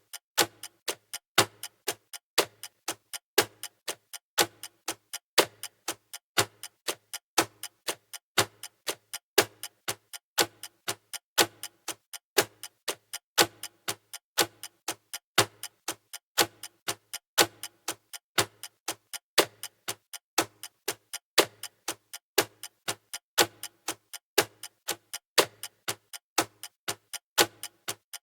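Clock-style ticking of a countdown timer, even sharp ticks at about two a second.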